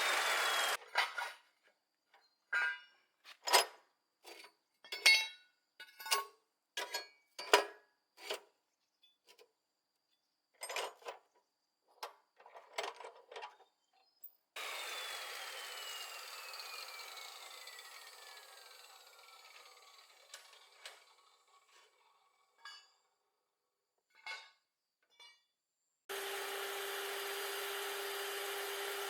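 Workshop tool work: a run of sharp knocks and taps. About halfway through, a power tool starts suddenly and runs down with a falling whine. A few more taps follow, then a power tool runs steadily near the end.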